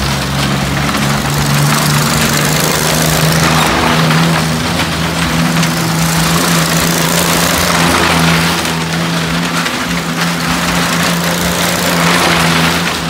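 A car engine running at steady, held revs as the car circles the vertical wooden wall of a well-of-death drum. The sound swells and fades about every three to four seconds as the car passes on each lap.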